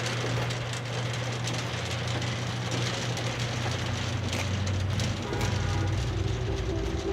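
Lamborghini supercar engine running with a steady low hum, dropping slightly in pitch about four seconds in. Music with sustained notes comes in over it about five seconds in.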